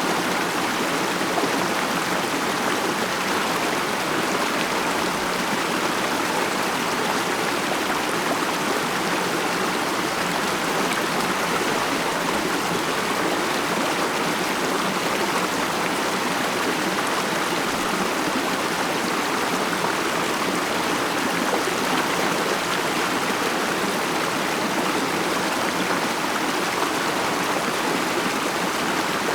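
Mountain stream flowing steadily over rocks, a continuous even rush of running water.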